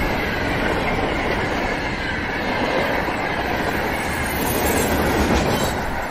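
Electric multiple-unit commuter train running past close by: a steady rush of steel wheels on the rails, with a faint high whine over it.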